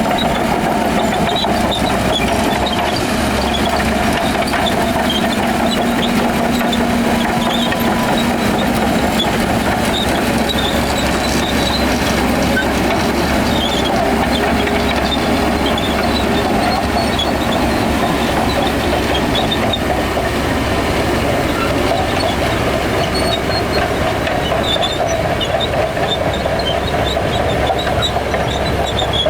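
Shantui DH17 crawler bulldozer's diesel engine running steadily under load, with its steel tracks clanking and giving short high squeaks.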